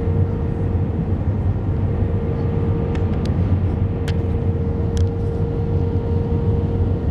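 Steady cabin noise of an Airbus A320 around landing: a low rumble of engines and airflow with a constant hum, and a few faint ticks.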